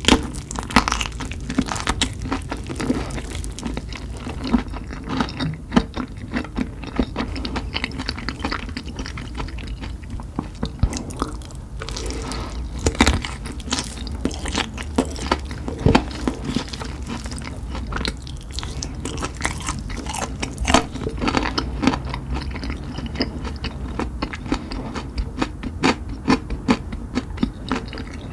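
A person chewing and biting into spicy chicken, with many irregular crunching clicks throughout.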